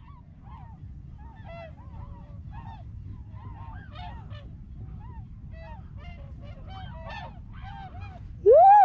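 A flock of tundra swans calling: many short, overlapping whooping notes from several birds, with a steady low rumble underneath. Near the end a single much louder, closer whoop rises and falls.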